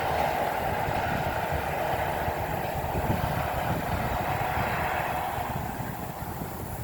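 Bulldozer's diesel engine running steadily as it works through brush, growing quieter near the end.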